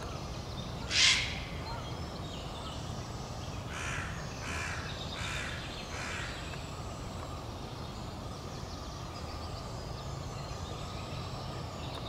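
Harsh bird calls: one loud squawk about a second in, then a run of four shorter caws a little over half a second apart, over steady low background noise.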